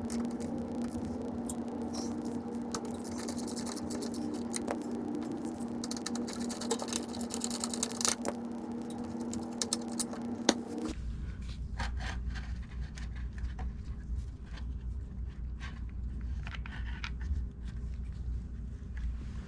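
A small powered hand tool running steadily with rapid clicking as it backs out bolts, stopping suddenly about 11 seconds in; after that, scattered metallic clicks and handling of tools and parts over a low hum.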